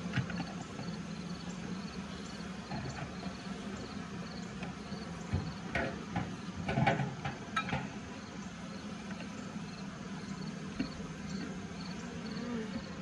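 Honeybees humming steadily around an open hive, with a faint high insect chirp repeating two or three times a second. Scattered knocks and scrapes of the hive frames and comb being worked, clustered about five to eight seconds in.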